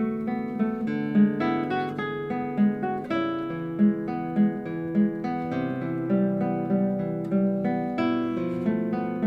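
Solo classical guitar playing a slow piece: a continuous run of plucked notes over ringing bass notes.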